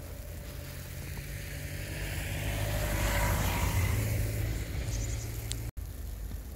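A car passing on a street: the noise of its tyres and engine swells to a peak about halfway and then fades, over a steady low traffic rumble. The sound drops out for an instant near the end.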